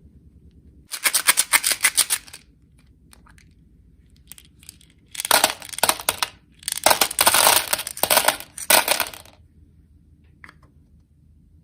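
Small hard-shelled candies pouring and clattering into a container, a rapid patter of many clicks in three bursts, about a second in, about five seconds in and again just after.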